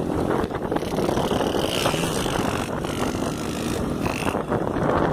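Motorcycles running on the road during a group ride, a steady mixed engine and road noise.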